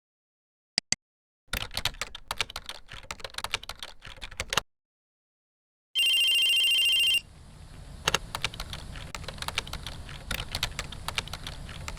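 Typing on a computer keyboard in a run of quick clicks. About six seconds in, an outgoing phone call's electronic ring sounds once for about a second, followed by a low line hum with scattered clicks.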